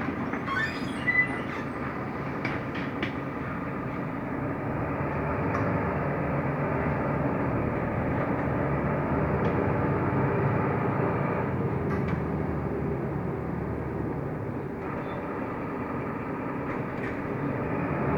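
Inside a Mercedes-Benz Türk O345 Conecto LF city bus on the move: steady engine and road noise that swells a little in the middle and eases off again, with a few short clicks and rattles in the first few seconds.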